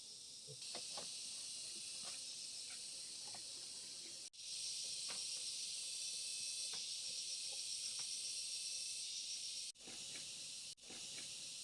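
Insects chirring steadily in a high, even band with a fine pulsing texture, over a few faint ticks. The sound breaks off sharply three times for a moment.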